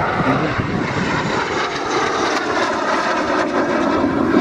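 Aircraft engine noise from a display aircraft flying by, a steady roar with a tone that falls slowly in pitch as it passes.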